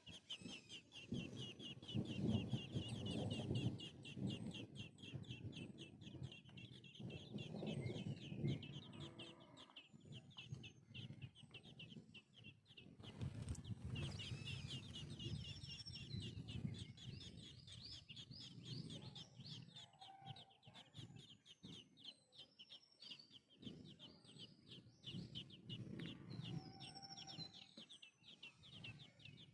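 Birds calling: a rapid, unbroken high chirping, with lower calls that come and go.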